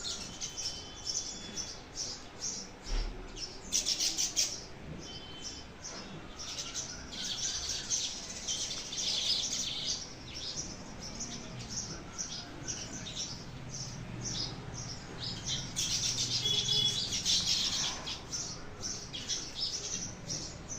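Many small birds chirping together: a dense, continuous chorus of short, high chirps, busiest in the middle and again from about sixteen seconds in.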